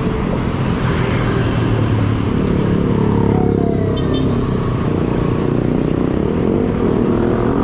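Busy road traffic of cars and motorcycles passing close by, a steady mix of engine hum and road noise.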